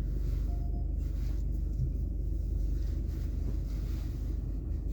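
A car's engine running, a steady low rumble heard from inside the cabin.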